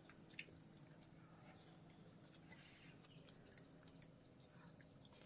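Crickets chirring faintly in a steady high drone, with a few faint clicks.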